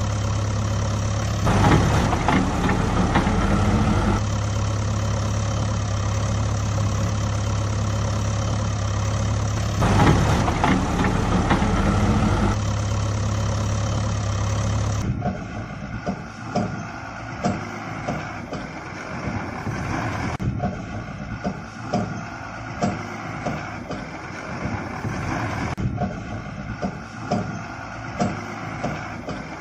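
Truck engine idling steadily, rising twice for a few seconds. About halfway through the sound changes abruptly to a quieter, uneven running with frequent short clicks.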